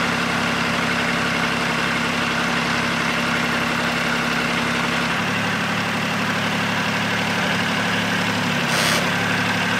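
Small Kubota tractor's diesel engine running steadily, its pitch shifting slightly about five seconds in. A brief burst of noise about nine seconds in.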